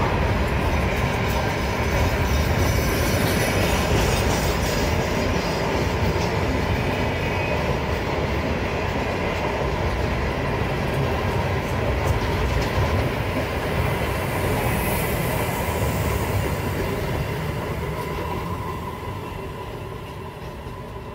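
Container wagons of a long freight train rolling past on the rails: a steady rumble with a faint high wheel squeal, fading over the last few seconds as the train moves away.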